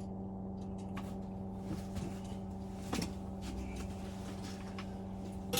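Steady low mechanical hum, with a few light clicks and a sharper knock about three seconds in and another at the end.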